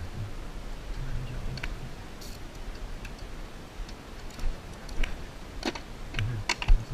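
Scattered light clicks and taps of hand tools and metal parts, with a few sharper knocks in the last two seconds, over a faint low hum.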